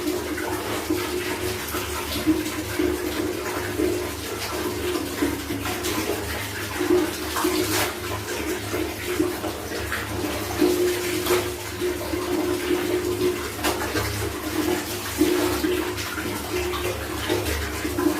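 Water splashing and sloshing as clothes are washed by hand, with scattered sharp splashes and slaps. A low hum comes and goes underneath.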